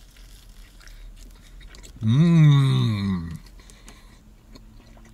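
A man chewing a big mouthful of cheeseburger, with soft wet chewing sounds. About two seconds in comes a long hummed "mmm" of enjoyment, rising then falling in pitch. This hum is the loudest sound.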